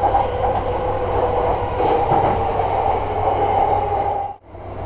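Running noise of a JR Yamanote Line train heard from inside the car: a steady rumble with a constant hum. It cuts out sharply for a moment about four seconds in, then carries on the same.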